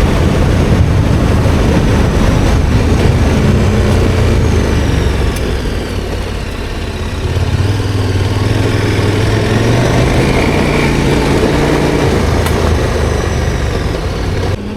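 KTM 1290 Super Adventure R's V-twin engine running as the motorcycle is ridden; it eases off about six seconds in, then pulls again a second or so later.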